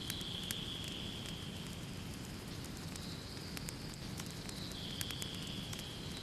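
Wood fire burning in a fireplace: many small sharp crackles and pops over a steady low rumble of flame. A thin, high, steady whistle runs through it and drops a little in pitch at the start and again near the end.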